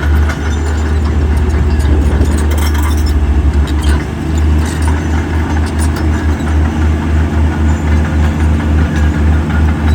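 Heavy diesel construction machinery running, a low rumble that pulses about twice a second in the second half.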